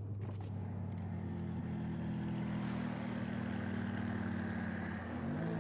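Car engine running at steady revs, its tone climbing slightly early on, then holding. About five seconds in, the revs rise and waver as it accelerates.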